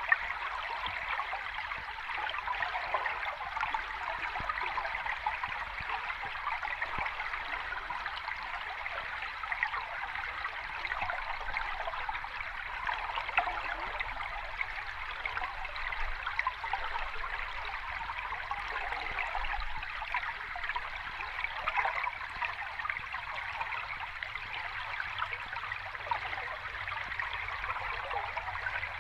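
Sea water washing in a steady, fizzing rush, with no separate waves rising or breaking.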